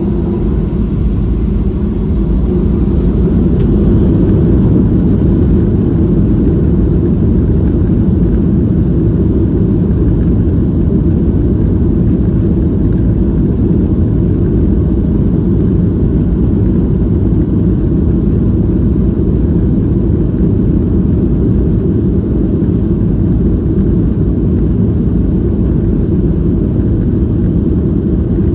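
Boeing 737-700's CFM56 jet engines at takeoff power, a loud, steady low rumble that builds over the first few seconds and then holds.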